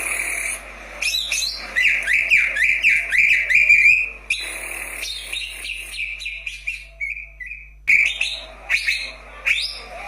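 Cucak ijo (green leafbird) singing: a fast run of short, down-slurred whistled notes, then looser phrases broken by a pause of about a second.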